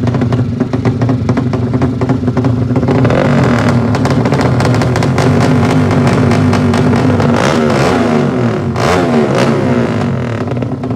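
Racing motorcycle engines idling with a rapid firing rattle. From about three seconds in, they rev up and down, several at once, their pitch rising and falling.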